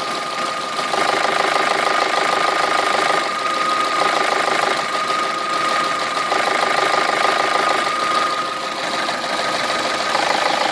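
Car engine running at idle with a fast, steady knocking clatter, the knock of a worn camshaft phase shifter (cam phaser). A thin high whine runs steadily through it.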